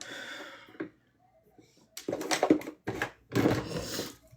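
Brief, indistinct vocal sounds from a person: a breathy hiss at the start, a pause of about a second, then two short murmured stretches.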